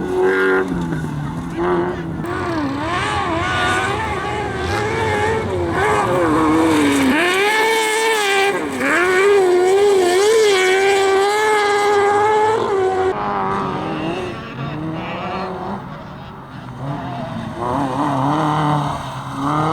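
Competition engine revving hard, its pitch rising and falling repeatedly with throttle and gear changes as the vehicle is driven at racing pace. The sound dips briefly near the end before picking up again.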